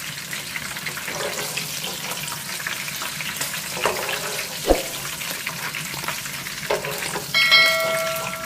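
Strips of green and red bell pepper sizzling and crackling as they fry in hot oil in a nonstick wok, stirred and scooped out with a metal spatula that knocks once against the pan about halfway through. Near the end a bell-like chime rings out for about a second.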